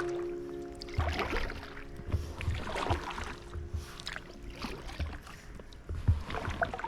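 Canoe paddle dipping and splashing in water in repeated strokes about every second or two, with faint steady musical tones underneath.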